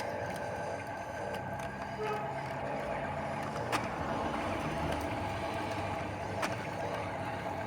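Heavy work vehicle's diesel engine running steadily, with a few short clicks or knocks over it.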